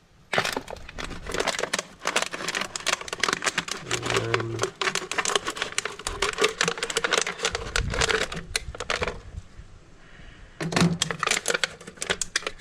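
Plastic Gatorade bottle being cut through with a blade: rapid crackling and clicking as the blade saws round the thin plastic, with a short pause near the end before more cutting.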